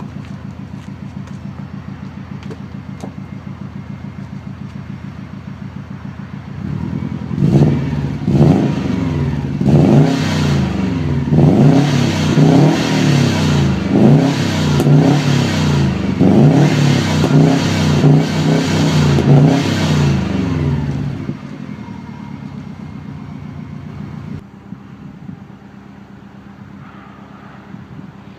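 Subaru STI's turbocharged flat-four boxer engine heard through an aftermarket Group N TSL rear box and Scoobyworld centre section exhaust. It idles steadily, then about seven seconds in is revved repeatedly, the pitch rising and falling with each blip, for about fourteen seconds. After that it settles back to idle, which turns quieter near the end.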